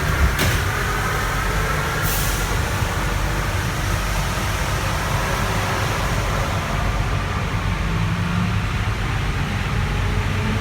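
Santiago Metro NS-93 rubber-tyred train running, heard from inside a car: a steady rumble with a faint motor whine that slowly shifts in pitch. There is a sharp click just after the start and a brief hiss of air about two seconds in.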